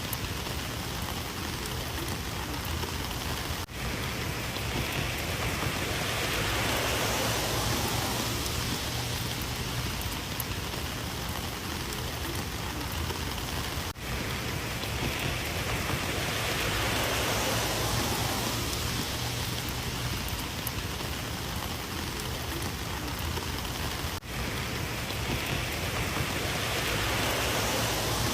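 Heavy rain falling steadily, with slow swells in its hiss and three brief drops in level about ten seconds apart.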